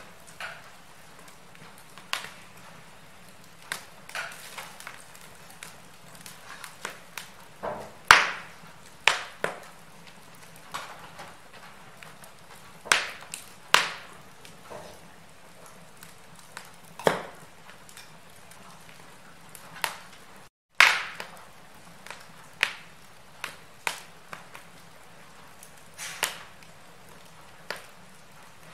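Wood fire in a fireplace crackling, with irregular sharp pops and snaps, several of them loud, over a low steady hiss. The sound cuts out for a split second about two-thirds of the way through.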